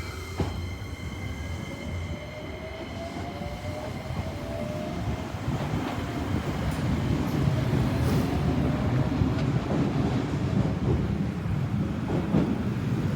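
Shizuoka Railway electric train running past, its wheels rumbling on the rails and growing louder through the second half, with a faint whine slowly falling in pitch over the first several seconds.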